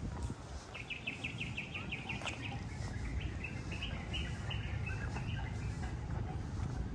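A bird singing: a quick, even trill of about eight chirps a second, then a looser string of chirps, over a steady low rumble.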